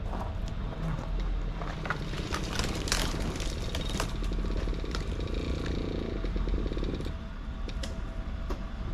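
Truck engine running steadily at low revs, with scattered cracks and clatter over it.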